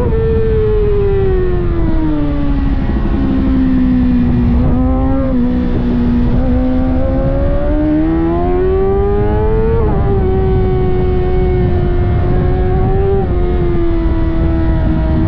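600cc inline-four sport bike engine at race pace. The revs fall over the first few seconds and hold low for a while, then climb steadily until about ten seconds in. There they drop sharply at an upshift and hold fairly steady for the rest.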